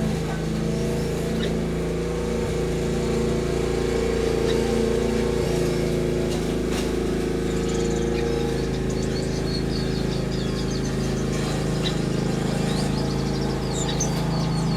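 A steady low droning hum, with faint high chirps from small finches scattered through it, more of them in the second half.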